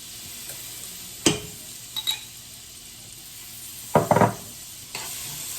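Minced garlic sizzling in melted butter in a hot skillet, a steady hiss that grows louder near the end. A utensil knocks against the pan about a second in and clatters with a ringing sound around four seconds in.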